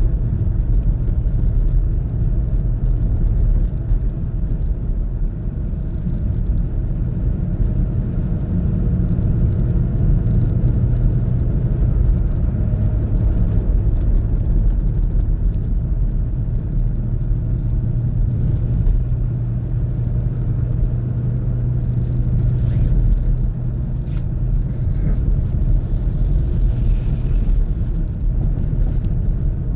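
A car driving along with a steady low engine and road rumble and a constant low hum, plus a few brief faint rattles about three-quarters of the way through.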